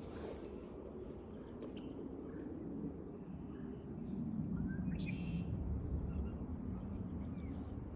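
Scattered short, high chirps and calls of wild songbirds, one a quick rising call about five seconds in, over a steady low rumble that grows louder from about four seconds in.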